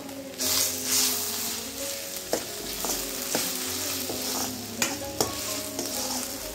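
Onions, curry leaves and ginger-garlic paste sizzling in coconut oil in a stainless steel kadai, starting about half a second in. A steel spatula stirs and scrapes them, clicking sharply against the pan several times.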